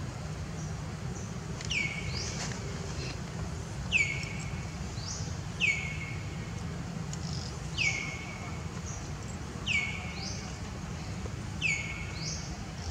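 A bird calling over and over, about every two seconds: each call a short rising note followed by a clear whistle sliding downward. A steady low background rumble runs beneath.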